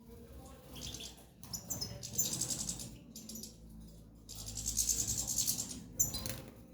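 Small cage birds chirping in short high-pitched bursts, with a stretch of wing fluttering and rustling a little past the middle.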